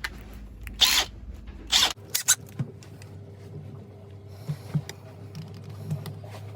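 Two short, loud rasping scrapes about a second apart, then scattered light clicks and taps: hand-tool work on a cracked plastic throttle control head.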